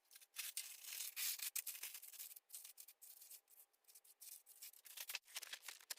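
Faint, irregular scraping and rubbing as castable refractory is mixed and worked into a trough shape on oven paper, with many small scratchy ticks.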